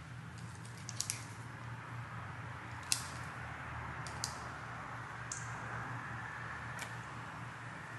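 A handful of sharp light clicks and taps, about six spread unevenly, over a steady low hum.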